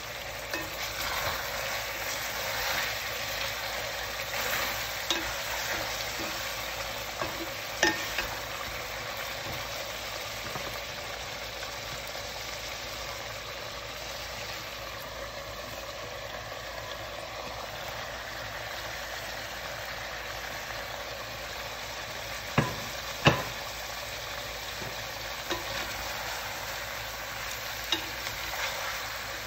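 Chicken drumsticks with peppers and tomato frying in oil in an aluminium pot: a steady sizzling hiss, a little louder in the first several seconds. A few sharp knocks cut through it, the loudest two close together about two-thirds of the way in.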